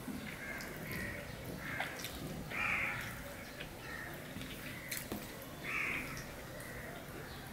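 Repeated harsh bird calls, the loudest about a third of the way in and again near three quarters, over faint clicks and squelches of a hand mixing rice and curry on a steel plate.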